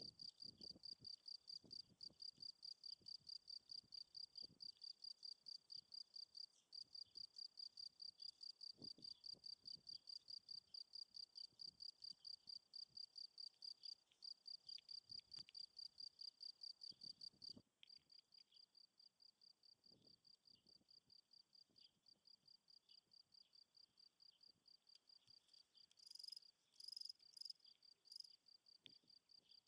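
Field crickets chirping in a steady run of short, high-pitched chirps, about three or four a second. The chirping turns softer about two-thirds of the way in, and a few louder chirps come near the end.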